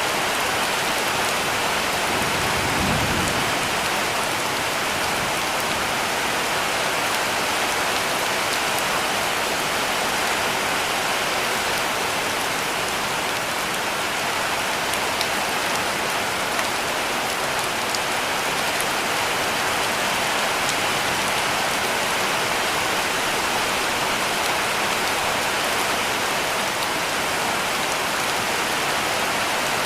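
Heavy rain falling steadily on a roof, a dense even hiss of drops with a brief low rumble about three seconds in.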